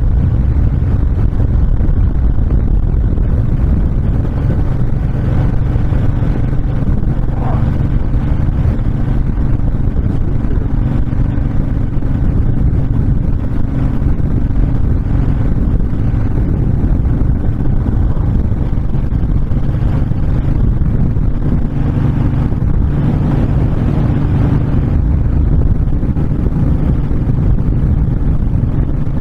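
Honda VTX1300 cruiser's V-twin engine running steadily at highway cruising speed, with a dense low rumble and wind rush over the microphone.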